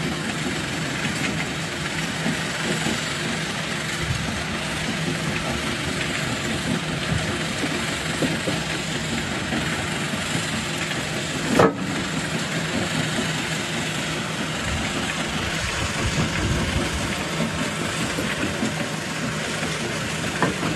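Jaw rock crusher running with a steady mechanical din, with one sharp, loud crack a little past halfway through.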